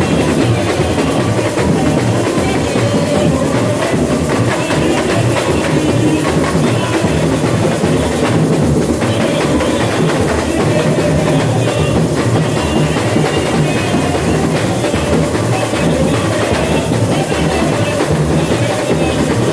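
Samba bateria (carnival drum corps) playing live: massed drums and percussion in a continuous, driving samba rhythm.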